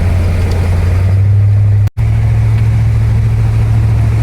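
Tour boat's engine running at a steady cruise, a constant low drone. The sound drops out for an instant about two seconds in.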